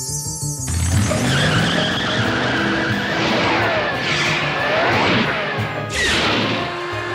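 Cartoon chase music under a run of screeching, skid-like sound effects, with pitch sweeps that rise and fall, and a sharp hit about six seconds in.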